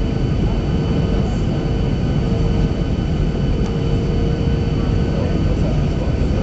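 Steady cabin noise of a Boeing 737-800 airliner: its CFM56 turbofan engines and airflow make an even rumble with several faint steady whining tones over it.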